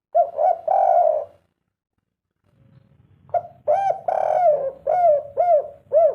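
Spotted dove cooing: a short phrase of coos, a pause of about two seconds, then a longer phrase of about six arched coo notes.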